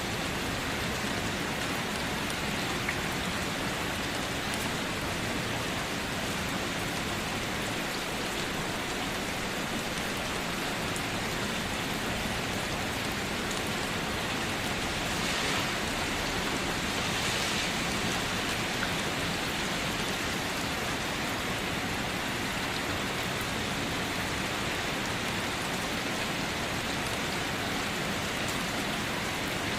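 Steady rain falling on a surface, a dense even patter that swells slightly about halfway through.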